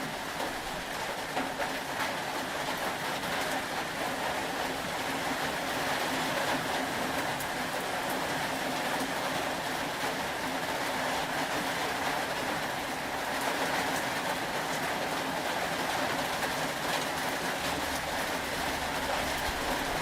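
Steady rain, an even hiss with fine patter running through it.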